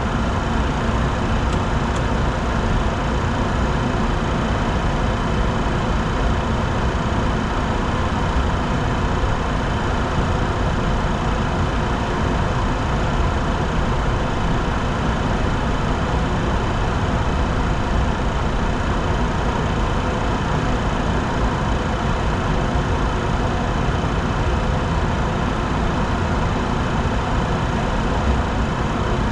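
Steady cockpit noise of a Bombardier Challenger 604 business jet in flight on approach: constant rushing of airflow and engine hum, with a few faint steady high tones.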